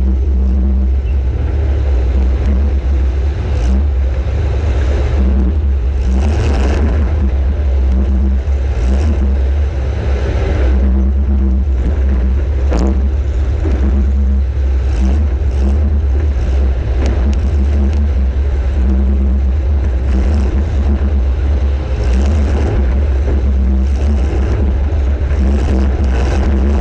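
Welded demolition-derby compact car's engine running hard with a loud, steady low rumble that rises and falls as it revs. A few sharp knocks from car-to-car hits stand out.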